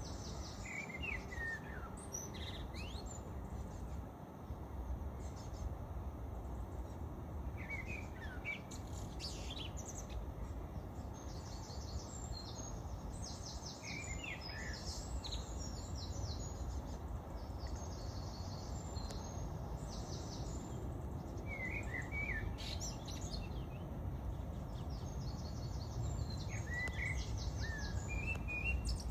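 Birds calling over a steady low city rumble: a short falling chirp phrase comes back every six or seven seconds, with high rapid trills in between.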